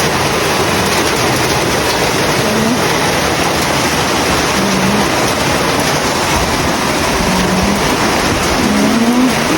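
Heavy rain and gusting wind of a rainstorm, a loud steady rush with no let-up, with a few brief low tones rising out of it.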